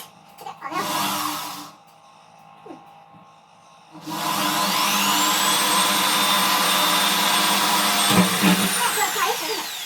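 Electric drill boring the headlight holes: a short run about a second in, then about four seconds in the motor spins up with a rising whine, runs steadily for about five seconds and winds down near the end.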